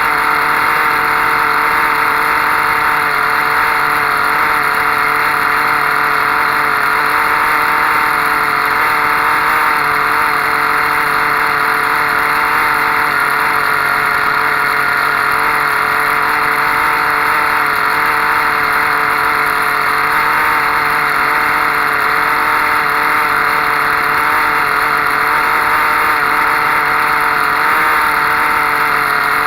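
Soviet OTM-08 Kolibri 0.78 cc model diesel engine, running on an ether, kerosene and oil mix, running steadily at an even pitch.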